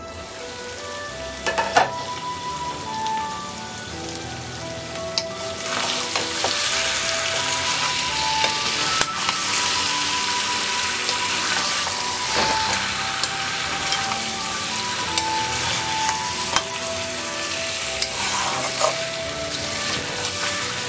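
Chicken curry cooked down to a thick masala sizzling in a steel karahi while a metal spatula stirs and scrapes it, with a loud clink near the start as the glass lid comes off. The sizzling grows louder about six seconds in. Light instrumental music plays underneath.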